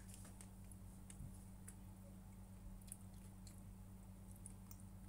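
Faint chewing with scattered small, irregular clicks over a steady low hum.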